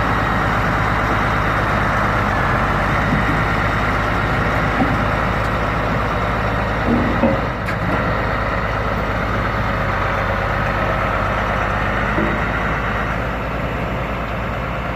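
Tractor engine running steadily and close by, an even low hum.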